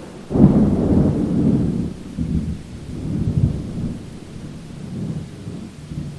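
Thunder over steady rain: a sudden loud crack-and-rumble about a third of a second in, then rolling low rumbles that swell and fade several times.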